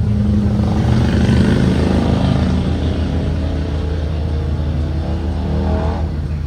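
Propane V8 engine of a 2023 Blue Bird Vision school bus under way, a heavy low rumble, its pitch rising over the second half as the bus accelerates.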